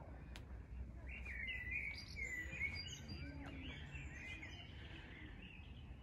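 Songbirds chirping and warbling in quick, overlapping phrases, busiest from about a second in, over a faint steady low rumble.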